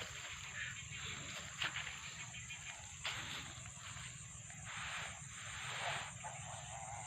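Many birds of a large flock calling and chattering in irregular bursts, over a steady high insect drone.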